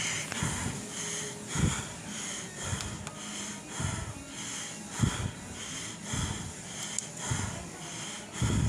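A person's breathing, hissy and recurring about twice a second, with a few irregular low thumps.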